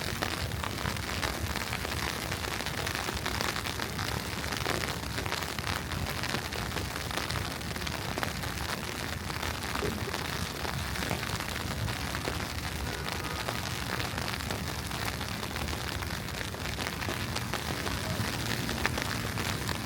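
Wet snow falling on a city street, a steady hiss with fine crackling over a low city rumble.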